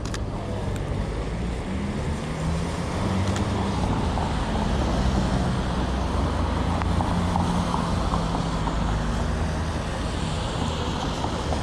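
City street traffic: motor vehicles running by with a steady low engine drone and road noise, a little louder from about three seconds in.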